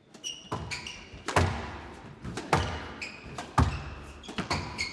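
A squash rally: the ball is struck and thuds off the court walls about once a second, with short high squeaks between the shots.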